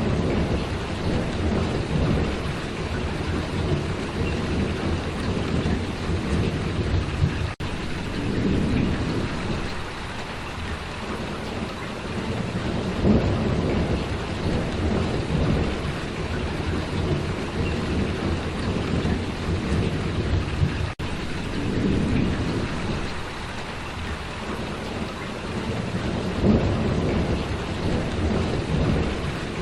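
Steady heavy rain, with a low rumble in it that swells and fades every few seconds. The sound cuts out for an instant twice.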